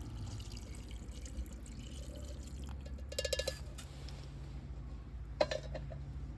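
Liquid bubbling and gurgling in an iron cooking pan, with a short run of quick, even bubbles about three seconds in and a single sharp click about five seconds in.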